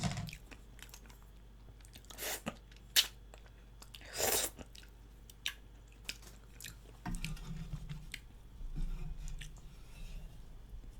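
A person chewing close to the microphone, with scattered wet smacks and sharp little clicks of mouth and food. A few louder smacks come in the first half.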